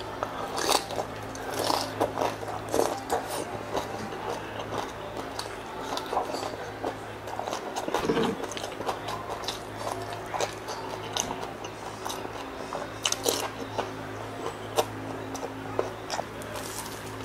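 Crunching and chewing of crispy deep-fried pork knuckle skin (crispy pata), heard as clusters of sharp crackling crunches. The crunches are thickest in the first few seconds, sparser in the middle and pick up again near the end, over a low steady hum.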